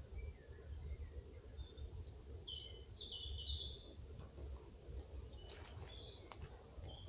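A small bird chirping in woodland, with a few short high calls about two to four seconds in. Near the end come brief rustles of footsteps through dry leaf litter, over a low steady background rumble.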